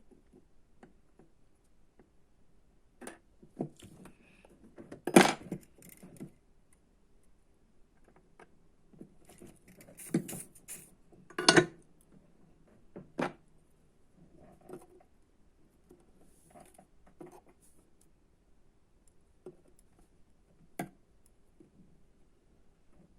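Small tools and kit parts being handled on a workbench: scattered clicks and light metallic knocks, the loudest about five and eleven seconds in, over a faint steady hum.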